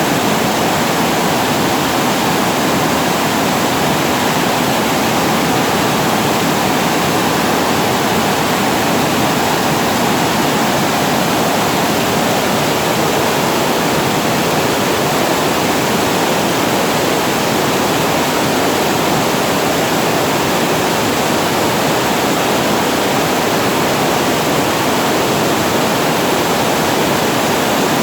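Water pouring over a reservoir weir and crashing below it, a steady, loud rushing that does not change.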